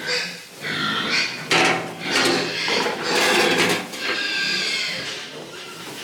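Pigs squealing: a run of about five loud calls, each under a second long.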